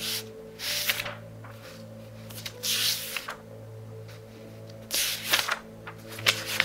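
Pages of a thick book of a couple of thousand pages being turned quickly by hand: several short papery rustles and flicks, one every second or two, over soft background music.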